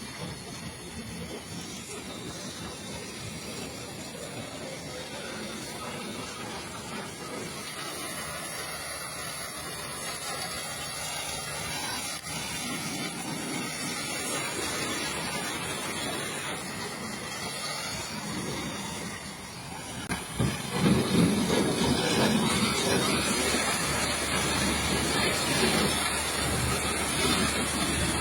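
Pressure-washer water jet spraying mud off a truck, a steady hiss that gets louder and heavier about twenty seconds in.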